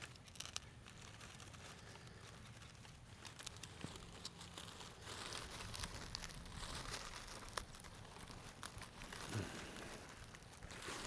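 Faint crinkling and rustling with scattered small clicks, as material is handled and pressed into place to wedge an item down tight.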